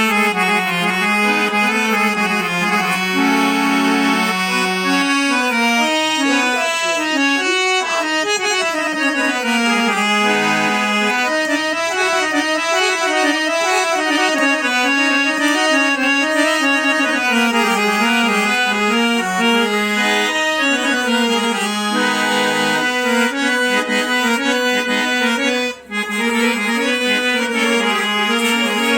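Harmonium played: a melody over held lower notes in a reedy, organ-like tone, with one brief break about three-quarters of the way through.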